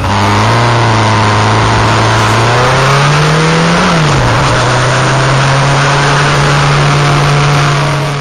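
Yamaha XJR1300 inline-four engine under way, heard from on the bike. Its pitch climbs as it revs up, drops sharply about four seconds in, then holds steady. A constant rush of wind and road noise runs underneath.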